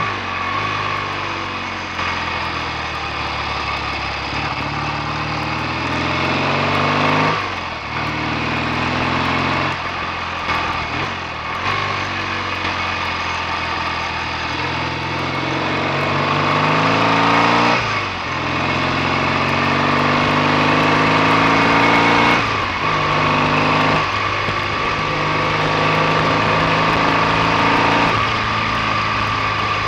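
BSA A65 650 cc parallel-twin motorcycle engine under way. Its note climbs steadily, then drops sharply and climbs again several times.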